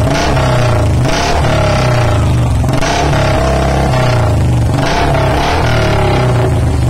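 Royal Enfield Bullet Electra single-cylinder engine revved through the exhaust silencer under test: the throttle is blipped about four times over a steady running note.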